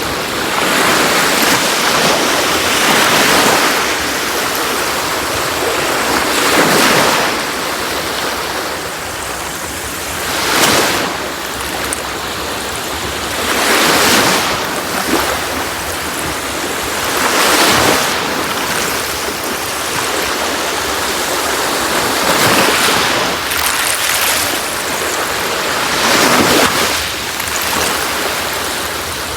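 Sea waves breaking on a shore, a continuous wash that swells into a fresh surge every three to four seconds.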